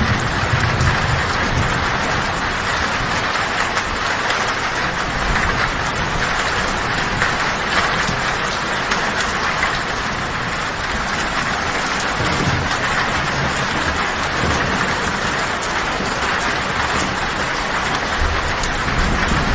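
Heavy rain drumming steadily on a tin roof. Low thunder rumbles under it at the start, again about twelve seconds in, and near the end.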